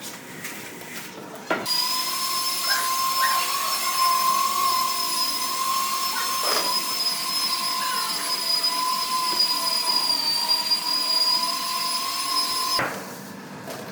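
An electric power tool's motor running steadily with a constant whine, starting suddenly about a second and a half in and cutting off shortly before the end.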